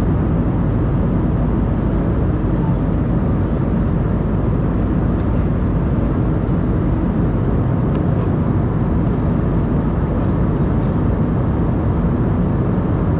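Steady cabin drone of an Embraer E190-E2 in flight: its Pratt & Whitney geared turbofan engines and the rush of air past the fuselage, a low even rumble that holds constant throughout.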